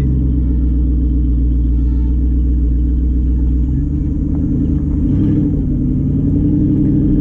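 Twin-turbo Ford Coyote 5.0 V8 Mustang running steadily at part throttle, heard from inside the cabin as a deep, continuous rumble. The engine note changes about four seconds in.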